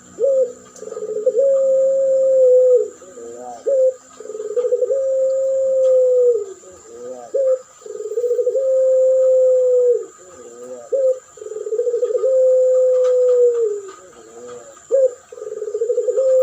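Puter pelung dove (domestic Barbary dove of the long-cooing type) calling over and over: a few short wavering notes, then one long, drawn-out coo that drops at its end, about five times.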